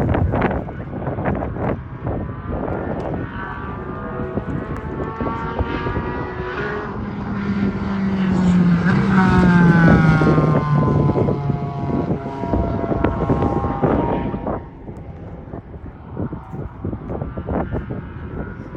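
A car at speed on a race track passes by. The engine note climbs as it approaches, is loudest about nine to ten seconds in, then drops in pitch as it goes away. Scattered short knocks are heard throughout.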